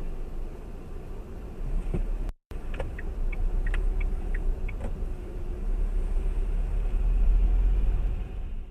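Low, steady rumble of a car driving, as picked up by a dashcam, cut off briefly about two seconds in and rising toward the end; a few short high ticks sound in the middle.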